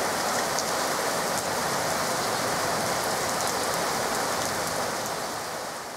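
Heavy rain falling steadily on wet grass and puddled concrete paths, a dense hiss flecked with the patter of single drops. It fades out near the end.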